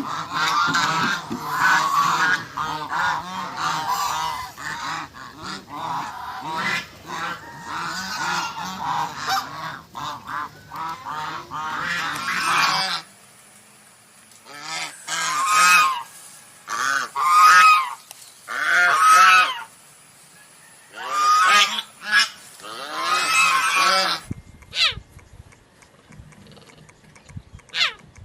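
Geese honking: a flock calling over one another for about the first half, then a string of separate loud honks with short gaps between them, and near the end only a few faint high chirps.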